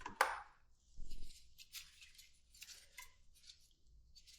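Scattered light clicks and scrapes of hand tools and small metal parts being handled during a motorcycle teardown, with a short low buzz about a second in.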